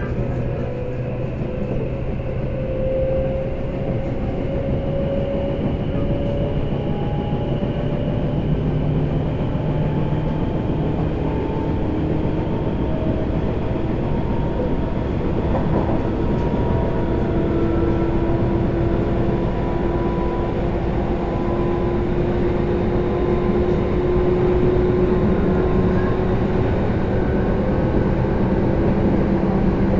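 Tobu 10030 series electric train running, with steady wheel and track rumble and a motor and gear whine that rises gradually in pitch as the train gathers speed.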